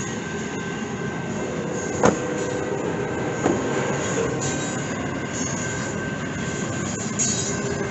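Double-stack intermodal freight train cars rolling past: a steady rumble of steel wheels on rail with a thin steady squeal over it. Two sharp metallic clanks come about two and three and a half seconds in.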